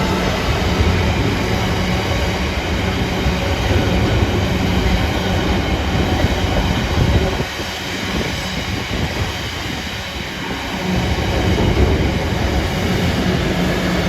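A train passing close by, loud and continuous, with a steady low hum. The sound eases for a few seconds after the middle, then builds again.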